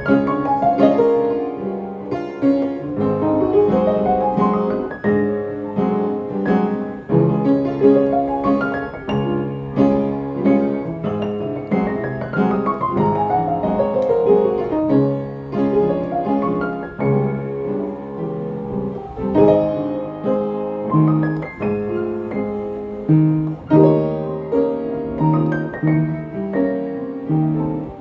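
Piano music: chords and melody notes, with a fast run of notes falling from high to middle a little before halfway through.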